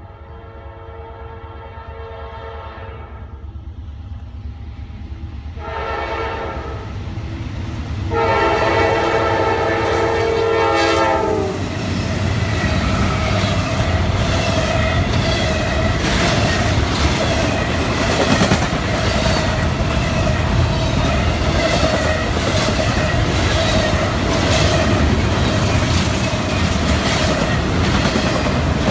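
Norfolk Southern freight locomotive horn blowing three long blasts for the grade crossing, each louder than the one before, the last dropping slightly in pitch as the locomotives pass. Then the double-stack intermodal cars run by: a loud rumble with rhythmic clickety-clack of wheels over the crossing and a steady high ringing tone.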